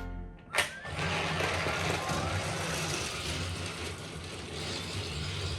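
A sharp click, then a battery-powered toy train's small motor running steadily as it travels along plastic track, with a low hum.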